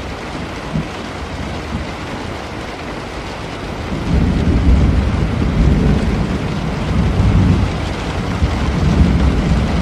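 Steady rain falling, with a low roll of thunder that swells about four seconds in and keeps rumbling.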